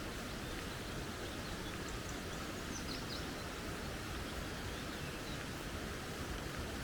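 Steady rushing noise of a flowing creek, with a few faint high bird chirps about two to three seconds in.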